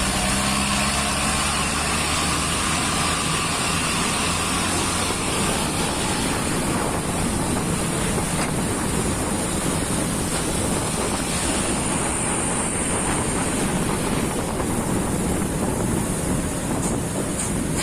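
Truck under way: its engine hum fades within the first couple of seconds under a steady rush of tyre and road noise on a wet road.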